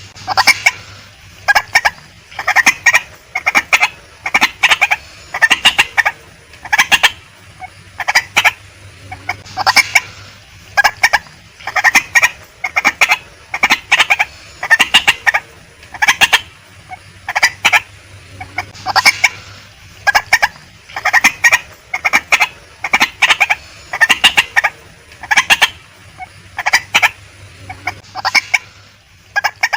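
Female white-breasted waterhen calling over and over: loud, short notes in clusters of two to four, about one cluster a second.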